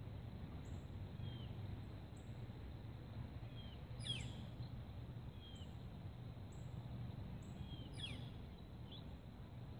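Birds calling over a steady low background rumble: small short chirps again and again, and two louder calls sweeping steeply down in pitch, about four and eight seconds in.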